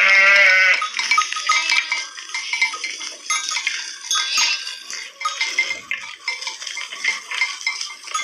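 Sheep bleating, one loud wavering bleat at the start, over a steady clinking of sheep bells as the flock moves, with fainter bleats later on.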